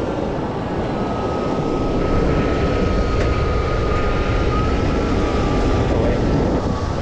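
Tow truck engine running steadily while its hydraulic winch pulls a vehicle, a low engine rumble with a thin steady whine over it.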